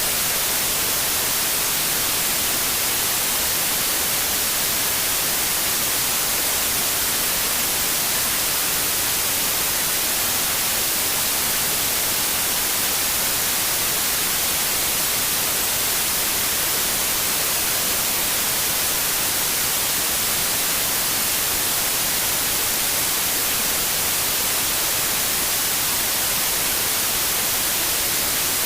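Steady synthetic white noise: an even, unchanging hiss spread across the whole range, strongest in the highs.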